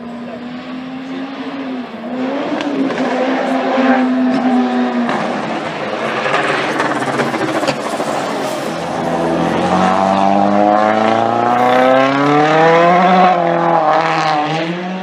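Rally car engine, a turbocharged four-cylinder, holding a steady note at first. From about two-thirds of the way in it revs up hard, rising in pitch as the car accelerates, with a short drop near the end before it climbs again.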